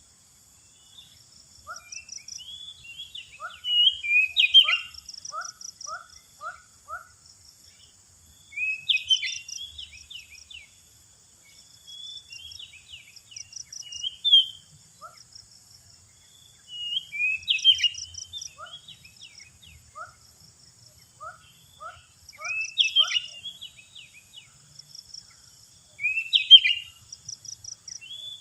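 Oriental magpie-robin singing: bursts of varied whistles and harsh notes every four or five seconds, mixed with quick runs of chips and short repeated lower notes. A steady high hiss runs underneath.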